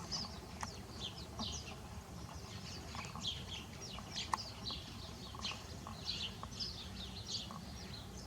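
Small birds chirping: many short, high, downward-sliding chirps, several a second, over a faint steady low rumble.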